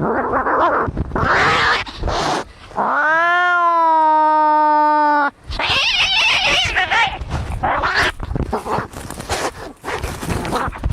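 Cats fighting: harsh, noisy screeching and hissing, with one long steady yowl about three seconds in that holds for over two seconds before the screeching resumes.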